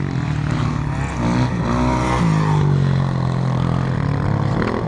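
Dirt bike engine revving, easing off, then picking up again about two seconds in as the throttle is worked.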